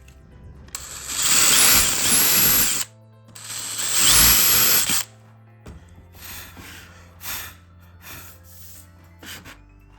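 A power tool runs in two loud bursts of about two seconds and one and a half seconds, followed by several short, quieter bursts, over background music.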